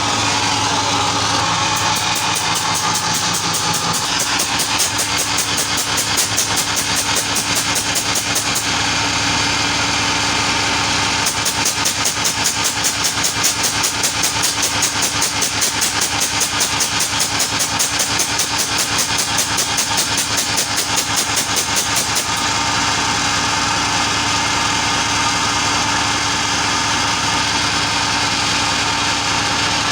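Ship's engine running loud and steady, with a fast, even pulsing beat that comes in twice over the constant drone.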